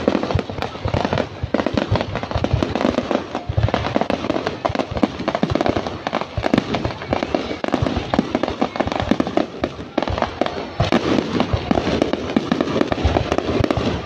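Fireworks display: aerial shells bursting overhead in a dense, rapid run of bangs and crackling.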